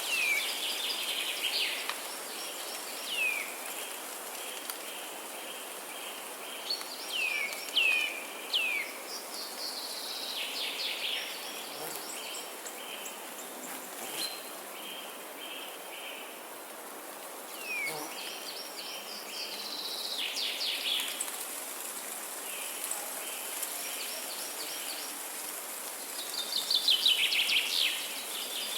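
Songbirds singing: short whistled notes that sweep downward, repeated several times, and fast rattling trills, the loudest near the end, over a steady background hiss.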